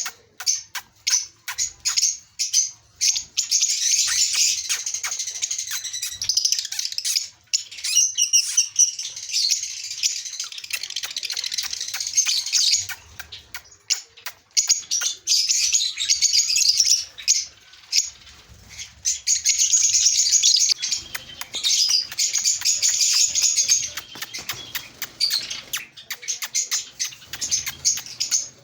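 Many small cage birds, lovebirds and Java finches, chirping busily and overlapping in a dense high twitter that pauses only briefly now and then.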